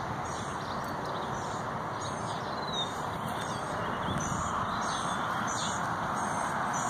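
Small birds chirping repeatedly in short high calls over a steady background hiss of outdoor ambience.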